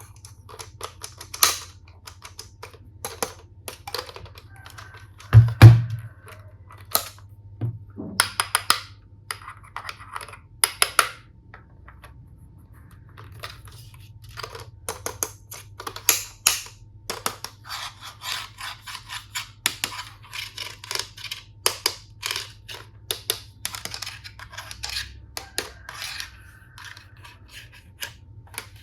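Plastic toy tool pieces being handled: a steady stream of clicks, taps and rattles. There is one heavier thump about five seconds in, and a long stretch of quick, close-set clicking in the second half.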